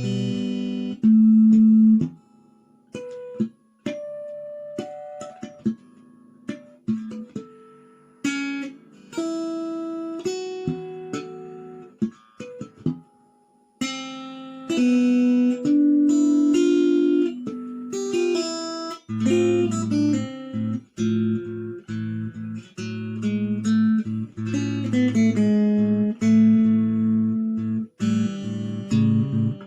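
Acoustic guitar playing an instrumental passage. At first it plays single plucked melody notes with short gaps between them. From a little past the middle it plays fuller, with low bass notes underneath.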